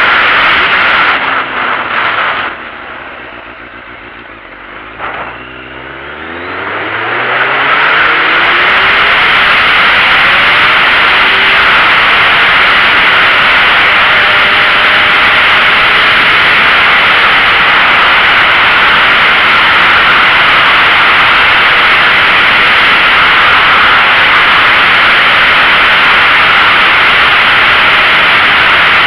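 Loud wind rush over the microphone of a sport bike riding at speed. For a few seconds near the start the wind drops away and the motorcycle engine is heard rising in pitch as it accelerates, then the wind noise takes over again.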